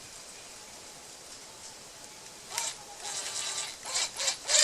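Electric drill with a 3/16 inch bit drilling a PVC pipe cap, run in short, uneven trigger bursts that start about halfway through after a quiet pause.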